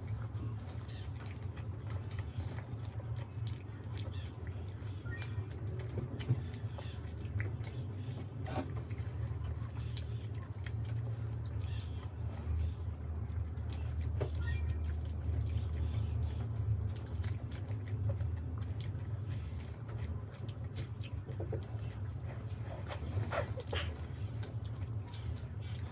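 Close-up chewing and biting of soft, syrup-soaked Indian sweets (rasgulla and gulab jamun), heard as scattered wet mouth clicks and squishes. A steady low hum runs underneath.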